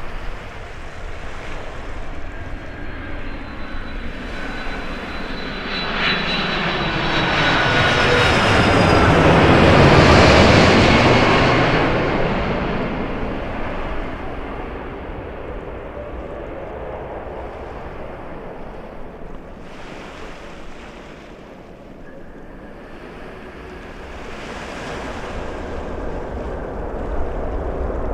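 Jet airliner passing low overhead: the engine noise builds to a peak about ten seconds in, its whine falling in pitch as it goes by, then fades away.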